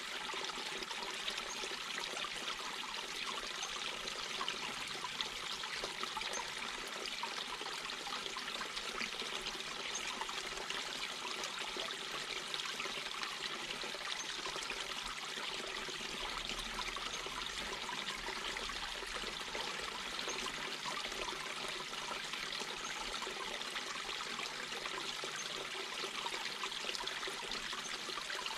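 Mountain brook babbling and trickling over rocks, a steady, even rush of water.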